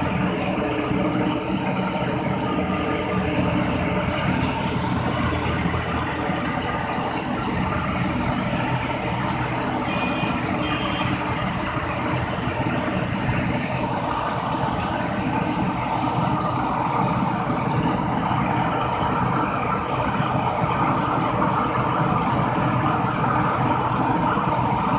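Rice combine harvester running steadily, its engine a continuous loud drone that fills out a little from about halfway through.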